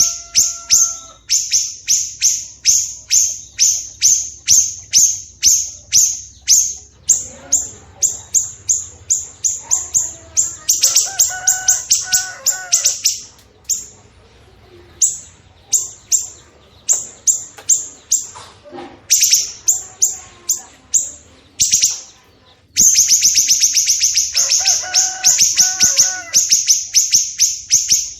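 Recorded songbird song of cucak jenggot and siri-siri kecil. Long runs of sharp, high chirps repeat about three times a second and break off in a few short gaps, with lower warbled phrases in between.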